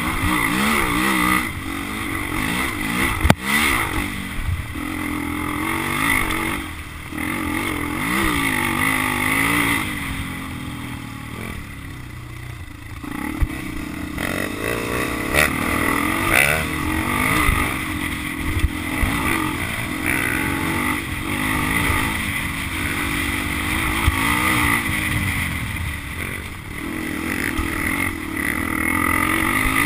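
Motocross dirt bike engines revving up and down over and over as they ride, with a sharp click about three seconds in.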